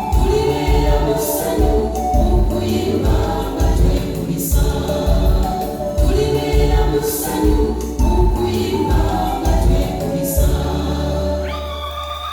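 Gospel choir singing over a steady pulsing bass beat, ending on a long held chord near the end.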